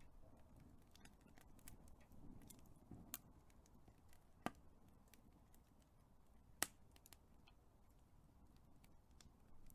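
Big wood fire crackling faintly: scattered small ticks over a soft low rustle, with a few sharp pops, the loudest about four and a half and six and a half seconds in.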